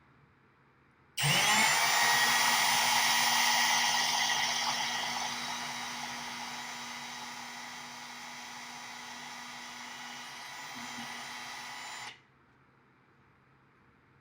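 Power drill spinning up and running steadily for about eleven seconds, drilling a hole in a rack case's outer rail. It grows gradually quieter after the first few seconds and cuts off suddenly.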